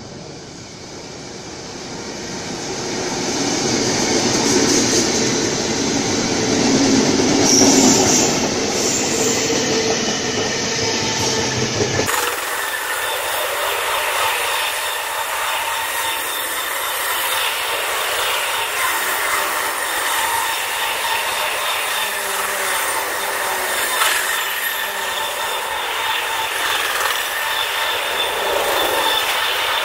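Diesel-hauled freight train passing through at speed. It grows louder as the locomotives approach and go by, then the low rumble drops away suddenly about twelve seconds in, and a long string of container wagons rolls past with steady wheel-on-rail noise and some squeal.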